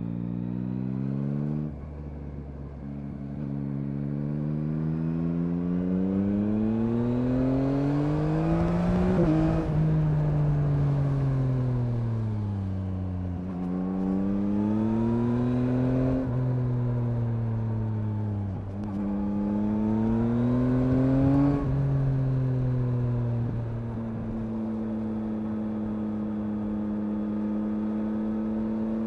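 A 2021 Yamaha MT-09's 890 cc three-cylinder engine under way: revs climb for several seconds, then fall back, climb and fall again with a few sharp breaks, and settle at a steady pitch for the last several seconds.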